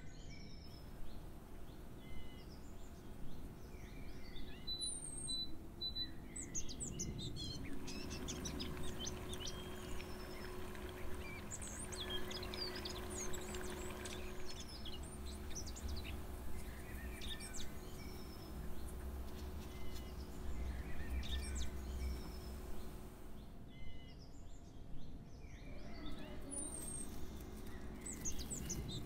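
Small birds chirping and twittering in short, scattered calls, over a steady low hum.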